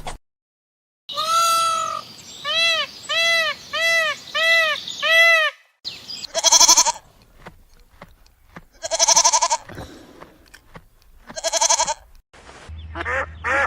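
Farm animal bleating: first a quick run of five short rising-and-falling calls, then three long quavering bleats a few seconds apart. Near the end a run of rapid short calls over a low hum begins.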